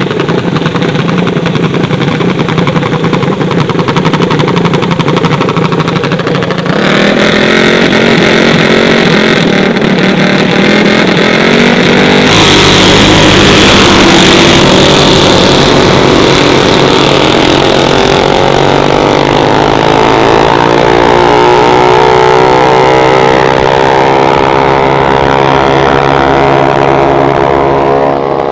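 Gas mini bike engines racing at full throttle, loud and continuous, growing louder about 7 and 12 seconds in. In the last third one engine's pitch climbs steadily as it revs up.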